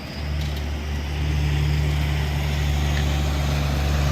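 Heavy truck engine running steadily nearby, a low steady hum that cuts in right at the start and gets louder about a second in.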